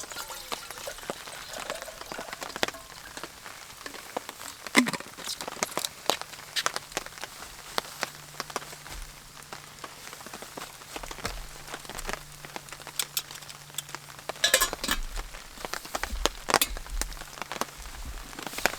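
Rain pattering and dripping onto a tarp shelter: many scattered sharp drips and ticks over a steady patter.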